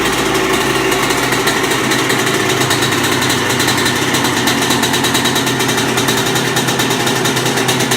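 Single-cylinder two-stroke engine of a 1998 Honda CR125 dirt bike idling steadily on full choke just after a cold start, with a fast, even firing rhythm and no throttle blips.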